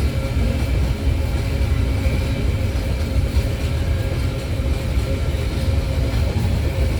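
Empty iron-ore wagons of a freight train rolling past on the rails: a steady, loud low rumble of wheels on track with no pauses.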